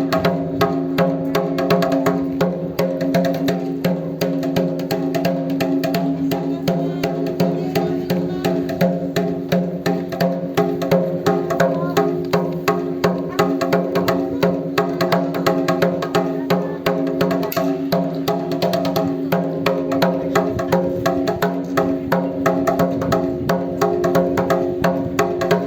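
Japanese taiko drums beating a fast, even rhythm, with sustained pitched tones running underneath.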